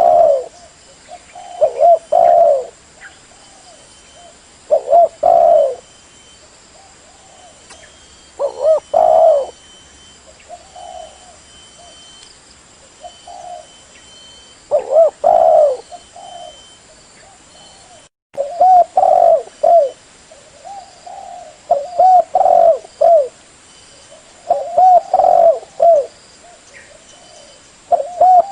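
Spotted dove (terkukur) cooing: short phrases of several low coos repeated every couple of seconds, with one very brief dropout about eighteen seconds in.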